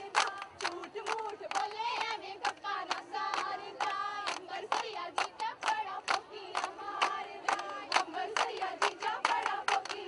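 Women's voices singing over steady rhythmic hand clapping, about three claps a second, in the manner of a Punjabi folk dance song.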